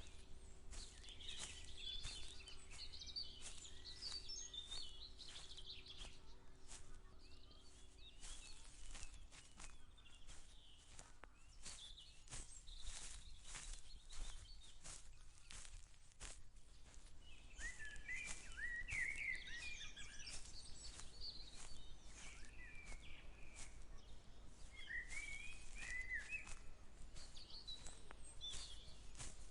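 Footsteps of a person walking steadily over a field path, about two steps a second, with small birds chirping and singing around, most busily in the second half.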